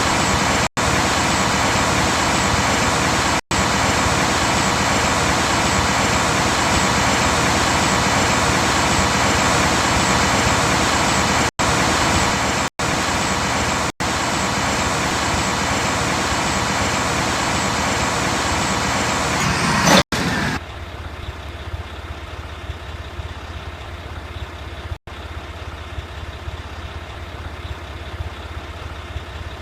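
Mack rear-loader garbage truck running with a loud, steady noise that about two-thirds of the way through drops suddenly to a much quieter low rumble. Several brief cuts to silence break up the sound.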